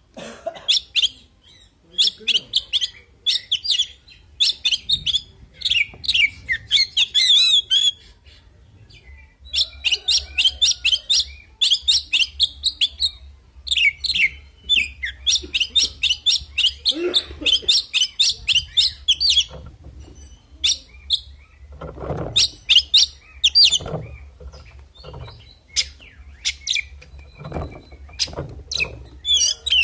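Male Oriental magpie-robin singing in fast runs of short, varied chirps and whistles, broken by brief pauses twice.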